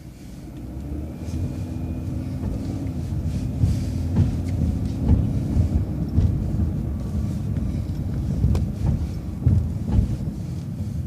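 City transit bus engine running with low road rumble as the bus drives, growing louder about a second in as it picks up, with occasional short knocks and rattles.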